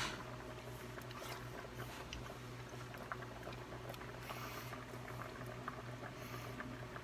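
Pot of chili simmering, with thick bubbles popping as small irregular crackles over a steady low hum.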